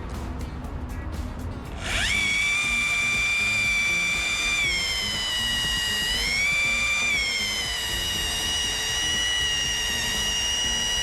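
Rotary polisher with a wool pad spinning up about two seconds in and running with a high whine as it cuts the paint with compound, its pitch sagging and recovering a couple of times as it is pressed against the panel.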